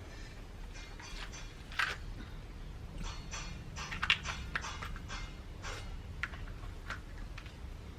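Irregular small clicks and crackles of eating and handling food, with sharper ticks about two and four seconds in, over a steady low hum.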